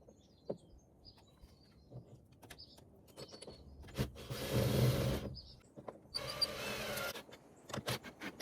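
Cordless drill driving heavy-duty screws, running in two bursts of about a second each around the middle, with light handling clicks and faint bird chirps between them.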